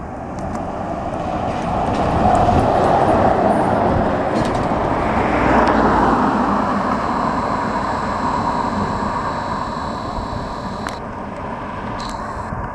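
Scania Citywide LF electric city bus going past: tyre noise and motor whine swell over about two seconds and then fade slowly. The whine drops in pitch as the bus passes.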